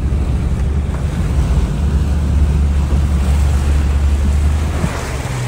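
Jeep Cherokee XJ wading through about two and a half feet of creek water: a steady low engine drone under a continuous wash of water rushing and splashing against the vehicle.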